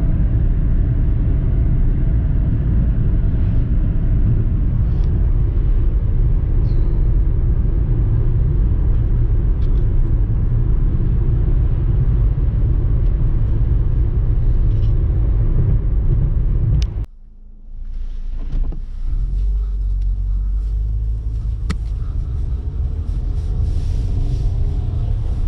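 Steady road and engine rumble heard from inside a moving car. About two-thirds of the way through it cuts out abruptly and returns as a quieter steady rumble.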